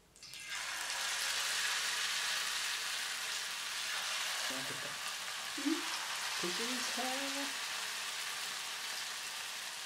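Pakora batter of gram flour and chopped vegetables dropped by hand into hot oil in a frying pan, setting off a steady sizzle of deep-frying that starts about half a second in and carries on as more pieces go in.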